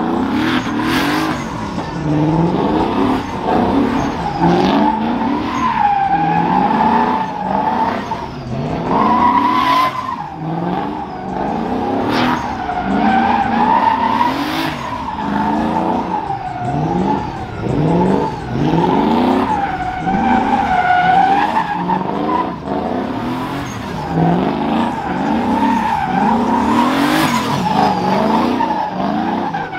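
A truck doing a burnout: its engine revving hard in quick rising surges again and again, over a continuous wavering squeal of spinning tires.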